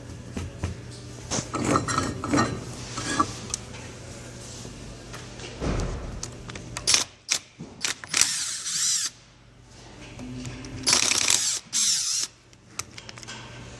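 Tools working on a Warn winch being taken apart: scattered clicks and metal clatter, with two longer noisy bursts about 7 and 11 seconds in.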